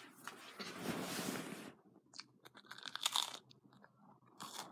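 Crunching and chewing of crisp, well-toasted toast close to the microphone: a long crackly crunch from about half a second in, then a few sharper crunches around three seconds in.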